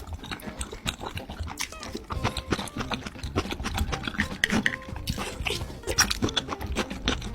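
Close-miked eating: a person chewing and smacking food, a dense run of quick clicks and mouth noises.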